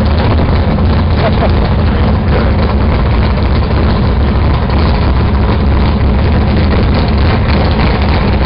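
A car engine idling steadily: a loud, even, deep rumble that does not change.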